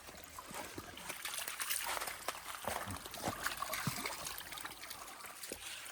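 A shallow stream trickling, with scattered light knocks and small splashes at irregular moments.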